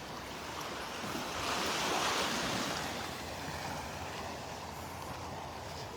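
Gentle surf on a sandy beach, small waves washing ashore, one wash swelling up and fading away about two seconds in.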